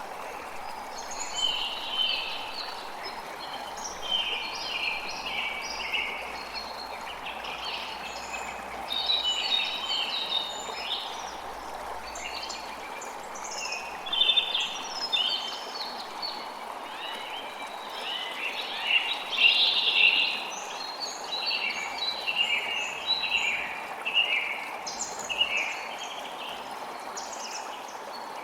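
Birds chirping and singing in quick, overlapping calls over the steady rush of a creek.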